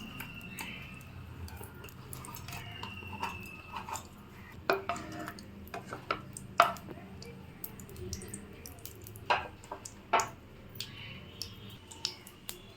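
Scattered clinks and taps of a metal spoon against a karahi (cooking pan) over a low background, as oil and ghee heat in it.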